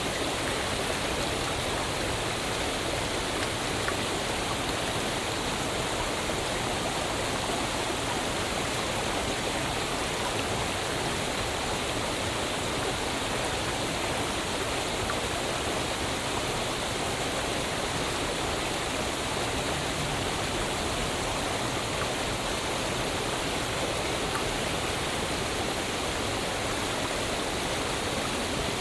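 Waterfall: water falling and splashing, a steady, even rush of noise.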